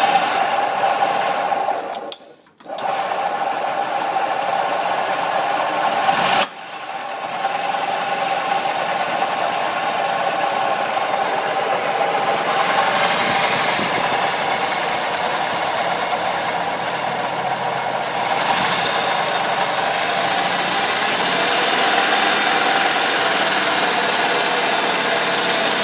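E-Z-GO 295 golf cart engine running steadily with a grinding noise, which the owner takes for a noisy bearing in the new motor, possibly damaged in shipping. The sound drops out briefly about two seconds in and breaks off sharply again at about six and a half seconds.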